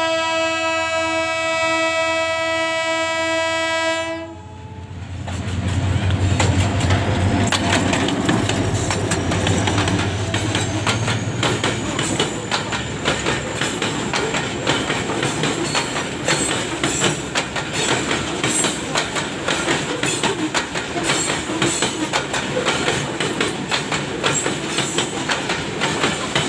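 GMU-30 diesel locomotive's horn sounding one long steady blast that cuts off about four seconds in. The locomotive then passes with a loud low engine drone, and a long freight train of box wagons rattles by, its wheels clicking rapidly over the rail joints.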